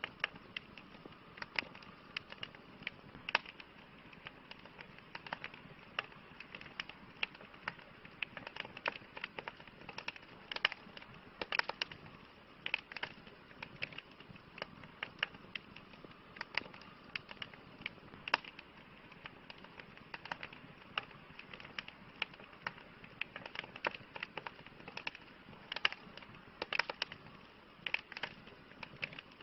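Campfire burning with irregular sharp crackles and pops, several a second, over a soft steady hiss.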